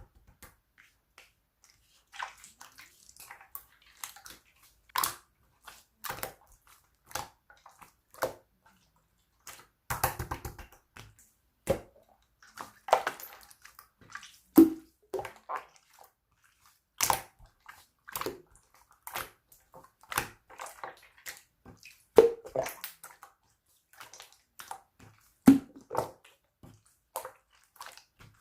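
Slime being squeezed and pressed by hand, giving irregular wet clicks, pops and squishes, several a second at times.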